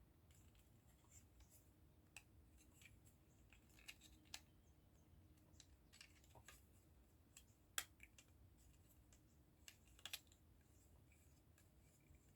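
Faint, scattered clicks and taps of small plastic model-kit parts being handled and pressed together, with a few sharper clicks about eight and ten seconds in.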